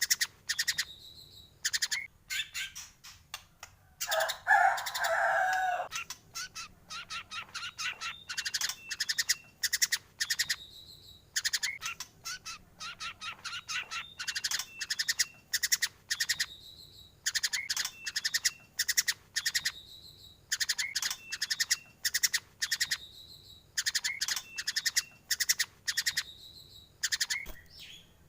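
White-rumped shama singing in full song: fast rattling, ticking phrases repeated every second or two, with a lower warbled phrase about four seconds in.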